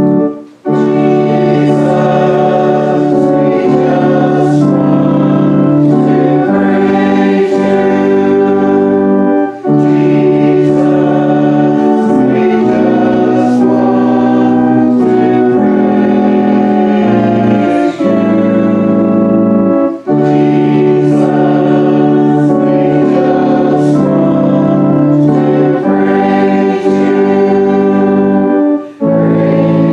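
Church choir singing a hymn with organ accompaniment in long held chords, with brief breaks between phrases about every ten seconds.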